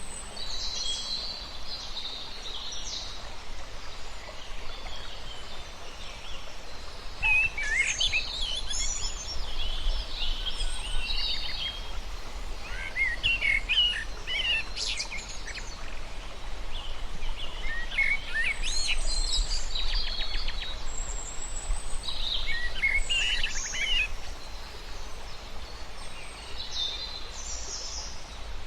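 Birds singing and twittering in short phrases every few seconds, quick rising and falling notes over a steady background hiss and low rumble.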